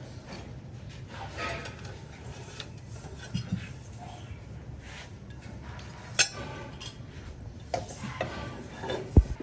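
Kitchen utensils clinking and knocking against pots and dishes in scattered short strikes, with one sharp clink about six seconds in and a heavy low thump near the end.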